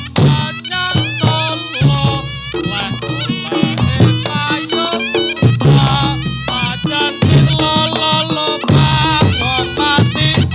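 Javanese reog ensemble music accompanying jathilan dance: a reedy shawm (slompret) plays a wavering, ornamented melody over steady drumming and low gong tones.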